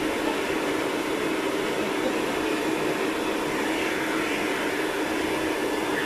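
Vacuum cleaner running steadily, a constant motor whine and rush of air, used to vacuum a dog's fur.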